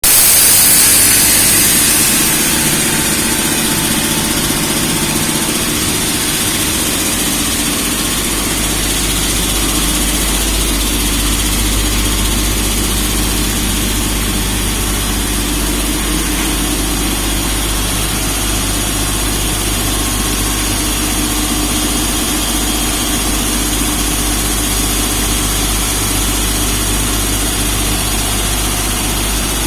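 Air compressor running steadily. A sharp hiss in the first couple of seconds fades out, and the low hum settles and deepens about eight seconds in.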